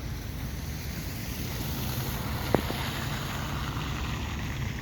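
City bus engine running with a steady low rumble over street noise. A single sharp click about two and a half seconds in.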